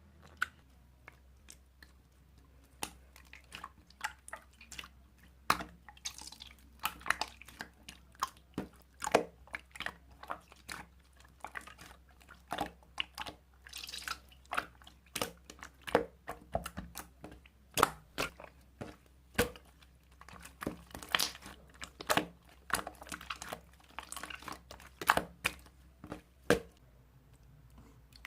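Marbled slime being squeezed and poked by hand, giving irregular wet clicks, pops and short crackles, one or two a second.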